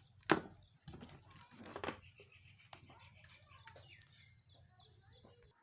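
Handling noise while working on a refrigerator compressor: a sharp click about a third of a second in and a smaller knock near two seconds, over a low steady hum that stops just before the end.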